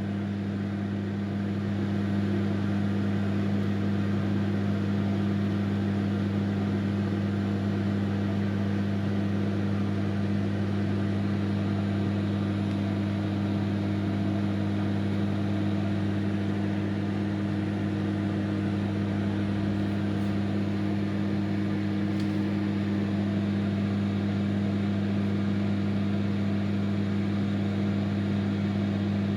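Microwave oven running mid-cycle: a steady low hum with the whir of its fan.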